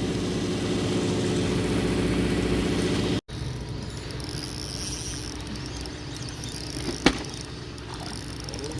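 Fishing boat's engine running steadily at idle. It cuts out abruptly about three seconds in, then a quieter steady hum continues with a single sharp click near the end.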